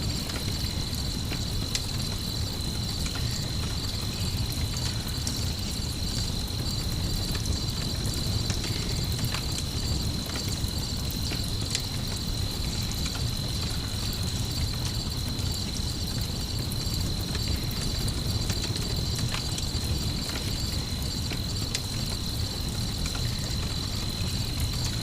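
Night ambience: crickets chirping in a steady high trill over a campfire crackling with scattered pops, and a low steady rumble underneath.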